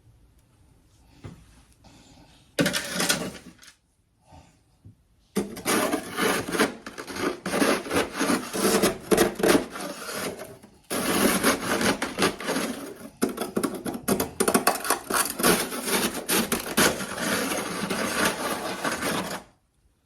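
Close-up chewing of powdery humidifier freezer frost: dense, rapid crunching. A short burst comes about three seconds in, then steady crunching runs from about five seconds to just before the end, with two brief breaks.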